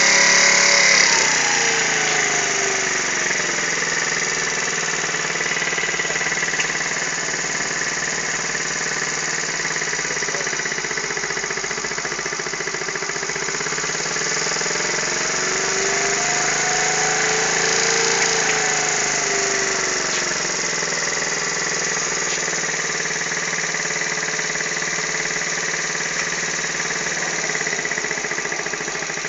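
Motorcycle engine running on a test line, its speed falling over the first few seconds, then rising and falling again about two-thirds of the way through.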